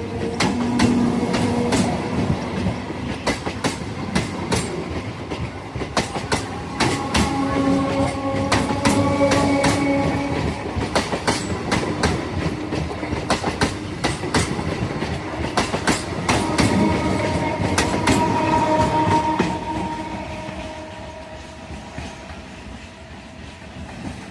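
Electric multiple unit local train running at speed, its wheels clattering over rail joints in quick, irregular clicks over a steady rumble, with held tones that come and go. The sound fades away over the last few seconds.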